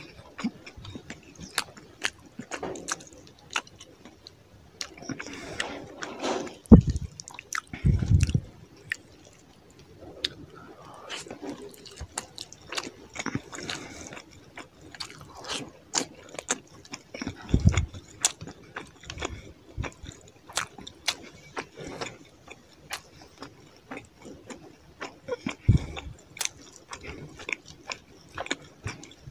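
Close-miked eating sounds of rice and fish curry eaten by hand: wet chewing and lip smacks in many short sharp clicks, with fingers squishing rice and fish on the plate. A few dull low thumps stand out, the loudest about 7 s in.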